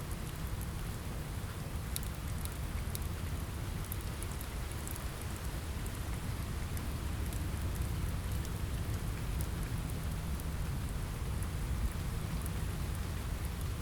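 Steady rain with a low rumble underneath, dotted with sparse, sharp crackles from a wood fire.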